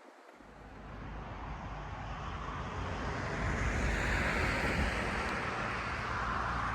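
Road traffic: a vehicle's tyre and engine noise swelling as it approaches and passes, loudest about two-thirds of the way in, over a low wind rumble on the microphone that starts suddenly just after the beginning.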